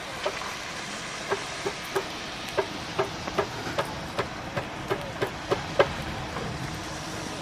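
A series of sharp knocks, about two or three a second and unevenly spaced, each with a brief ringing tone, over a steady background hiss. The knocks stop about six seconds in.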